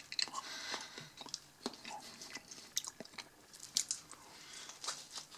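A person chewing a mouthful of BBQ burger close to the microphone, with soft wet mouth sounds and irregular small crackles.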